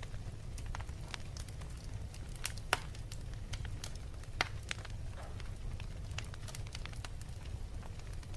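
Wood fire crackling in a fireplace over a steady low rumble, with scattered snaps and two louder pops, one about a third of the way in and one about halfway.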